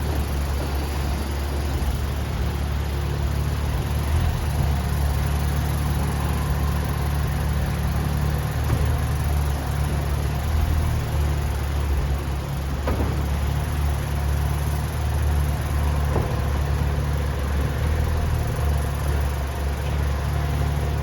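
Steady low mechanical hum from a BMW Z4 running without change, with a faint click about thirteen seconds in and another a few seconds later.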